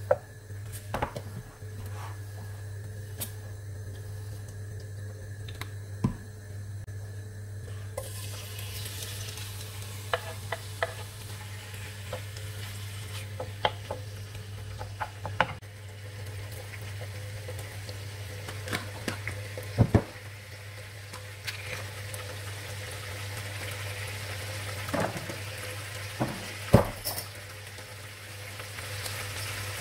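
Raw chicken cubes sizzling in hot ghee and olive oil in a nonstick frying pan, stirred with a wooden spoon. The spoon knocks and scrapes against the pan many times. The sizzle starts about a quarter of the way through, when the chicken goes into the fat, over a steady low hum.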